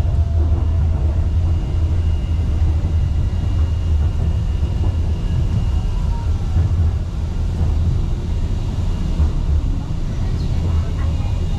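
Steady low rumble inside a Wuppertal Schwebebahn suspension railway car running along its overhead track, with a faint thin high whine over it in the first half.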